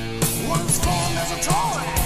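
1980s heavy metal band playing: distorted guitars and bass over a steady drum beat, with a melody line bending and wavering on top.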